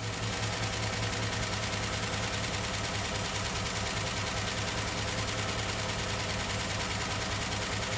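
Chevy 305 V8, bored 0.030 over, idling steadily with excessive valvetrain clatter. The clatter is the sign of a rocker arm that has come off its valve stem and cam lobes worn flat.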